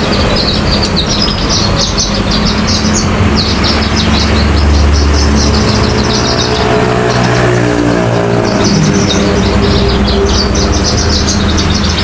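Javan bush lark (branjangan) singing a fast run of high chirps that breaks off for a few seconds midway and resumes, over a steady low rumble of traffic; a vehicle engine passes in the middle of it.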